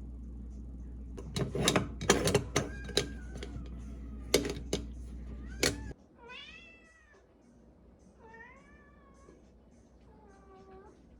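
A domestic cat meowing three times, each call rising and then falling in pitch. Before the meows come a run of sharp clinks and knocks over a low steady hum, which cuts off about six seconds in.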